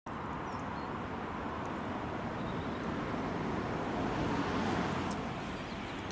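Steady low rumble and hiss of an electric passenger train approaching along the line, still some way off, swelling a little around the middle.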